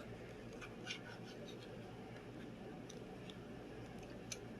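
Faint scattered clicks and light handling sounds from an easy-open pull-tab tuna can.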